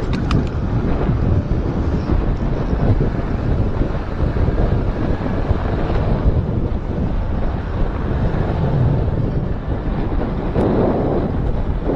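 Wind buffeting the microphone of a moving motorcycle, a loud, steady rush with the bike's running noise underneath.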